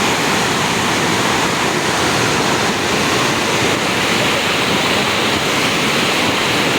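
Steady loud rush of water from a fast-flowing mountain stream (nala).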